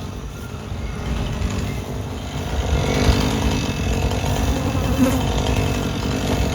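An engine running steadily, a little louder from about three seconds in.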